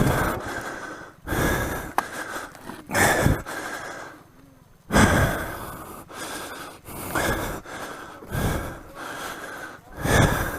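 A person breathing hard, heavy breaths coming about every one to two seconds, out of breath from the exertion of wrestling a dirt bike over rough trail.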